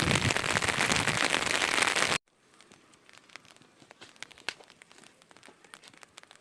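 Heavy rain pattering densely and loudly on a surface close by. About two seconds in it cuts off abruptly to a much quieter patch of light rain, with scattered drops ticking.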